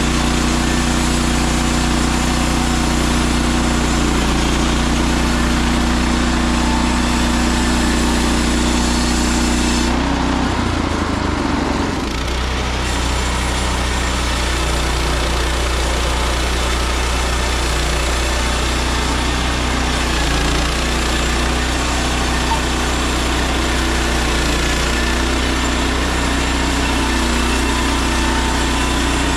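Engine of a Woodland Mills HM130MAX portable band sawmill running steadily. About ten seconds in, the sound briefly thins out and shifts for two or three seconds, then returns to the same steady running.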